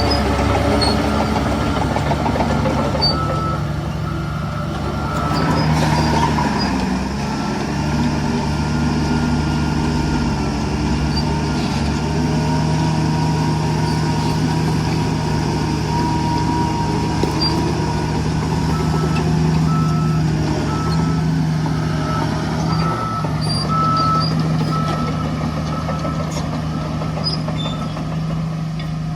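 Diesel engines of heavy earthmoving machines running steadily, with a vehicle's reversing alarm beeping at intervals near the start and again through the second half.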